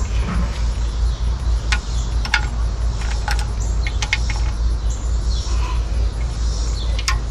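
Steady low rumble with many sharp clicks and knocks scattered through it, and faint high chirps.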